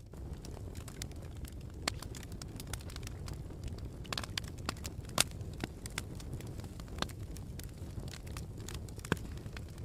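Campfire crackling: irregular sharp pops and snaps over a steady low rumble, with the loudest pop about five seconds in.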